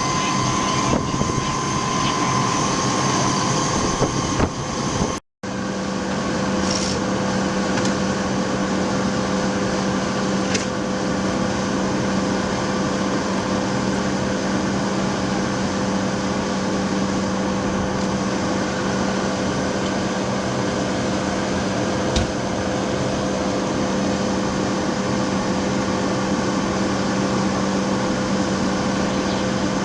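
Fire apparatus running with a steady mechanical drone. The sound drops out briefly about five seconds in, then carries on with a steady hum.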